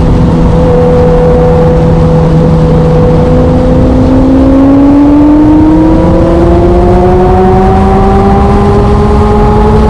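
Motorcycle engine running while riding, loud over a rush of noise. It holds a steady pitch, then rises smoothly from about three seconds in as the bike accelerates, and settles at a higher pitch.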